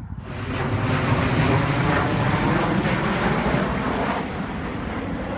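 V-22 Osprey tiltrotor aircraft flying overhead: a loud, steady rumble that starts suddenly and begins to fade near the end.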